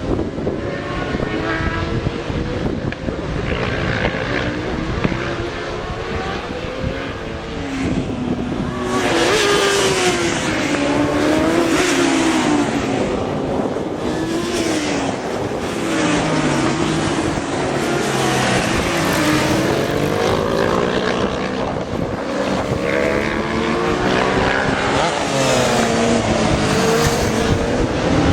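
Several racing motorcycle engines revving hard, their pitch climbing and dropping through gear changes as the bikes pass, getting louder about nine seconds in. A low gusty rumble, like wind on the microphone, lies underneath.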